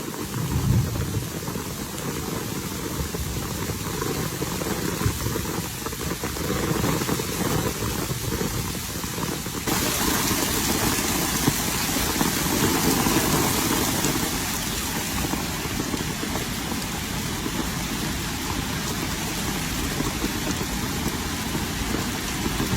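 Steady rain falling, a continuous hiss over a low rumble. About ten seconds in the hiss turns brighter.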